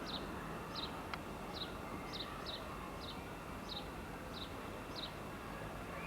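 A small bird chirping over and over, short high notes that each drop in pitch, about two a second, over a faint steady background hiss.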